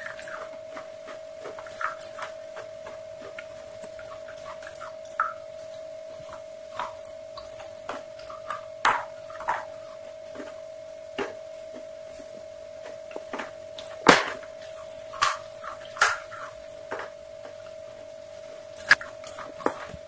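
Close-miked chewing of crunchy fried chicken: irregular crunches and mouth clicks, the loudest about fourteen seconds in, over a steady tone.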